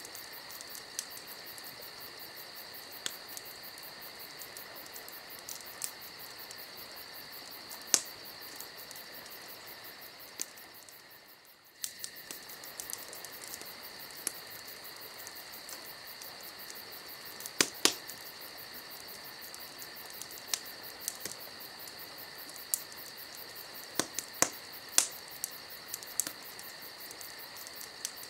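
Crickets chirping steadily at night with scattered sharp pops and crackles of a burning wood fire, the loudest pops about 8 and 18 seconds in. The sound fades out briefly and cuts back in about 12 seconds in.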